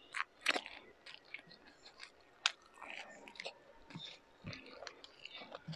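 Close-miked chewing of a mouthful of beef tapa and rice, with many short wet mouth clicks and smacks; one sharp click about two and a half seconds in stands out.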